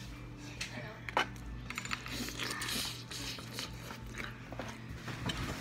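A person chewing seafood close to the microphone, with wet lip smacks and small mouth clicks over a faint steady low hum.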